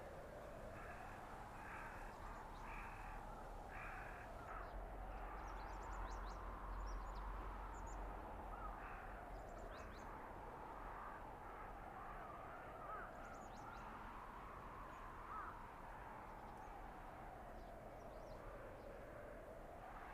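Blizzard wind howling through a winter forest, its whistling pitch slowly rising and falling in long swells. A crow caws several times in quick succession in the first few seconds.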